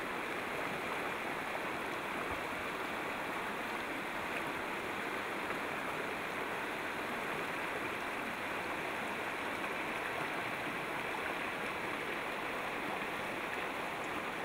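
Steady rush of flowing creek water, an even noise with no breaks.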